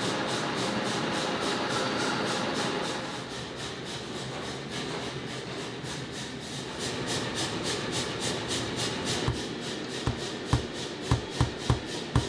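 Metal lathe, a 1960s machine, running and cutting steel stock, with a steady rubbing cutting noise that pulses about four times a second. From about nine seconds in, a string of sharp knocks cuts through it.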